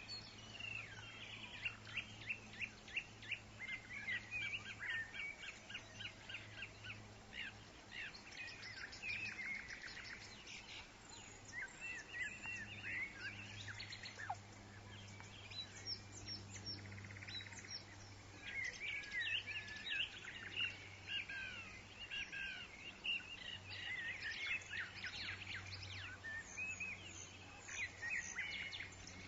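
Woodland songbirds chirping and trilling, several birds calling over one another in quick high chirps that come and go in bursts. A faint steady low hum lies underneath.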